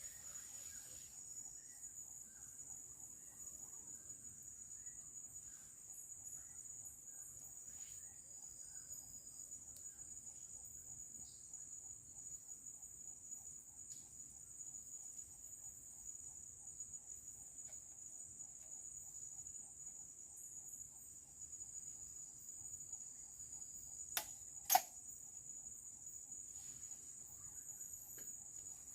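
Insects trilling in one steady high tone, with faint scattered ticks. About 24 seconds in come two sharp knocks half a second apart, the second louder.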